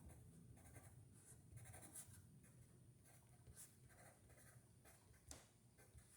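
Faint scratching of a pen writing on paper in short, irregular strokes.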